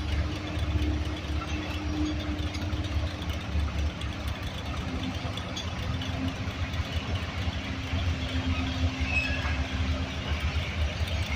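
Low, steady engine rumble running at idle, with a faint steady hum above it.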